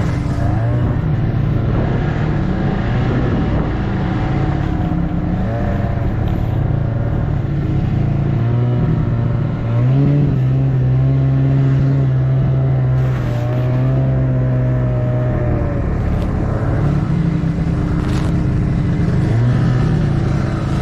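Snowmobile engine running under way, its pitch shifting with the throttle and stepping up about halfway through.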